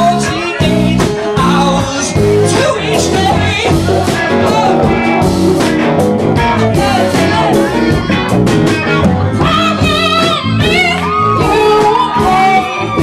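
A song with a singer's voice over guitar and band accompaniment; in the last few seconds the voice holds long, wavering notes.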